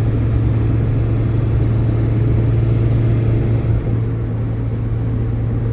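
Vehicle engine running at a steady low drone with road noise, heard from inside the cab while driving.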